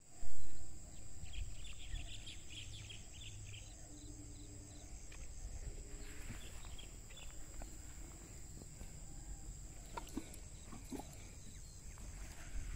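Rural outdoor ambience: small birds chirping during the first few seconds over a low rumble and a steady high whine, with a loud bump right at the start.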